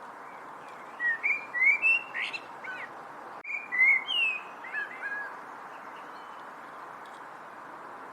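A songbird chirping in two quick runs of short, sliding whistled notes, separated by a brief break, over a steady background hiss.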